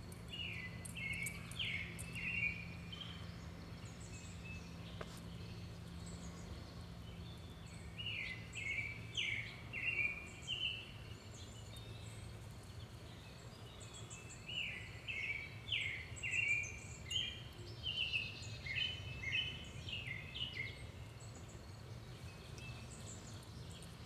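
A songbird singing phrases of quick, slurred notes, in three bouts with pauses between, over a faint low hum.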